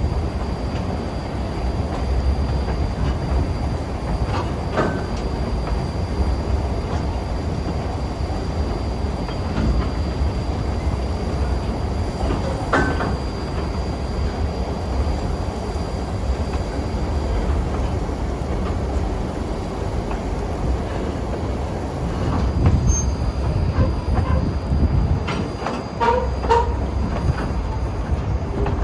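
Steady rumble of a passenger train rolling along the rails, with a few short clicks and squeaks from the wheels and cars, several of them close together near the end.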